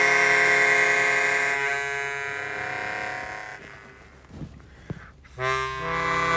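Suzuki Sirius S48B bass chromatic harmonica playing long held notes through a Boss MD500 effects pedal with added reverb. The note shifts to another about one and a half seconds in and fades out after about three and a half seconds. After a short gap with a couple of soft clicks, a new loud note starts near the end.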